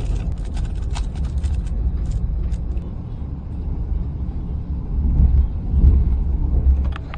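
Passenger train running, a heavy low rumble with a quick run of clicks and rattles in the first few seconds and low surges near the end.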